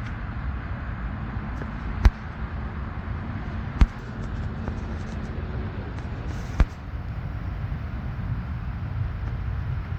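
Steady rumble of distant road traffic, broken by three sharp single knocks a couple of seconds apart.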